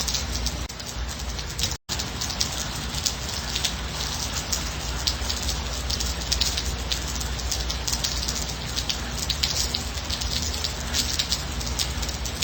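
Steady light rain falling, with many separate drops ticking on a surface over a soft, even hiss. A brief gap of complete silence cuts in just under two seconds in.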